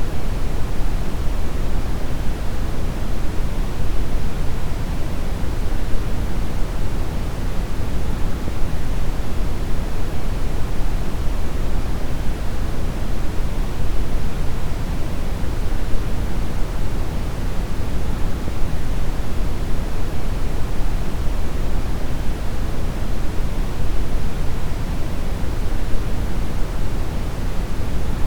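Steady deep brown noise: an even, unchanging rush of synthetic noise weighted heavily toward the low end, with little treble.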